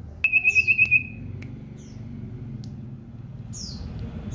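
Common iora (cipow) singing: a loud, fast trill of seven or eight notes on one pitch just after the start, followed by a few short, high chirps that slide downward.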